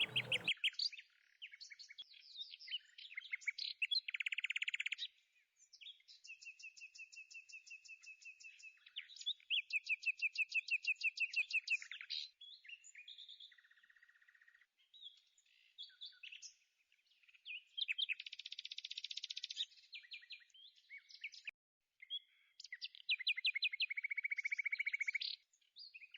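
Small birds chirping and calling, with quick trills of rapidly repeated notes coming and going, and a few short breaks of silence.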